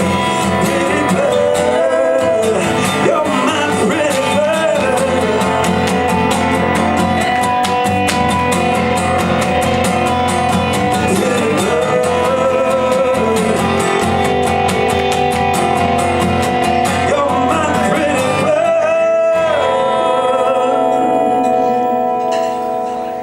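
Live song with guitar and a singing voice: the sung line bends and holds notes over quickly repeated guitar strums. The music winds down and fades about a second before the end.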